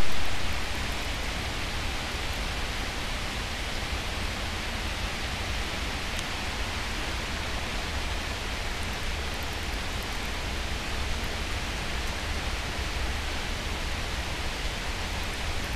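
Steady heavy rain from a hurricane falling on a lawn, walkway and street: an even, continuous hiss with a low rumble underneath. A brief louder burst comes right at the start.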